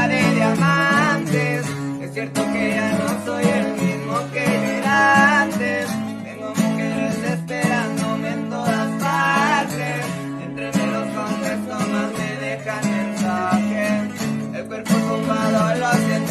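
Instrumental song intro: a lead guitar plays quick melodic runs over a plucked guitar accompaniment and held low bass notes.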